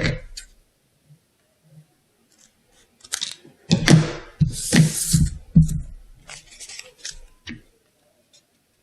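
Scissors cutting coloured paper: a run of crisp snips starting about three seconds in, loudest near the middle, ending with a last snip near the end.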